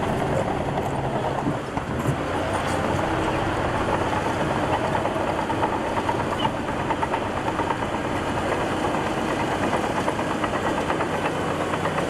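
Crawler bulldozer working: its diesel engine runs steadily under load beneath a dense, rapid metallic clatter from the steel tracks.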